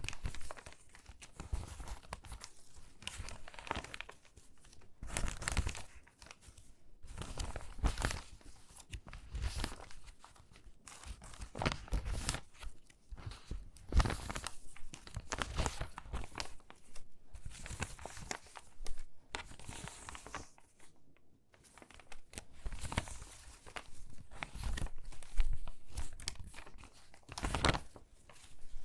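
Stiff, crinkly water-damaged magazine pages being handled and sorted: irregular bursts of crackling and rustling paper, close to the microphone.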